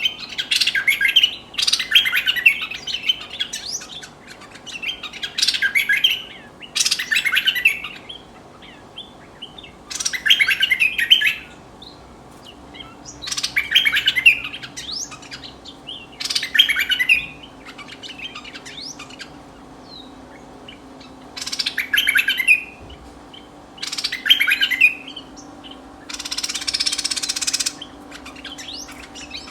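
A merbah (bulbul) decoy bird singing short, bubbly chattering phrases of about a second each, about ten times with short pauses between. A brief hiss comes near the end.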